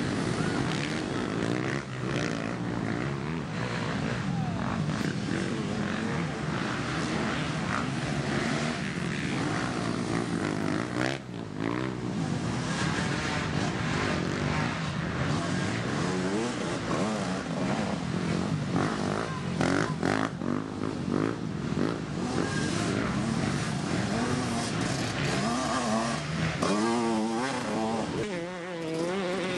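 Several dirt bike engines running and revving on a motocross track, overlapping and changing pitch as the bikes accelerate and back off. Near the end one engine revs up and down in quick swells.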